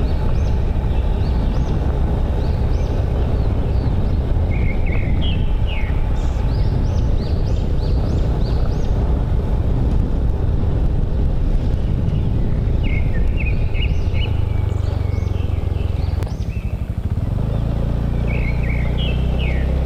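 Motorbike engine running under way with steady wind and road rumble, while birds chirp in short bursts several times. About three quarters of the way through, the engine note briefly dips, then settles into a steadier, lower hum.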